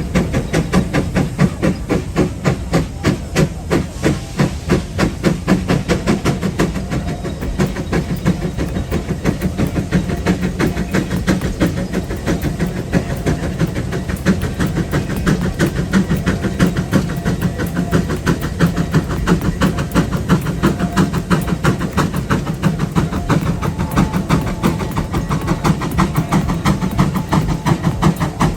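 A 150 horsepower J.I. Case steam traction engine running, its steam exhaust chuffing in an even, steady rhythm with a constant hiss of steam.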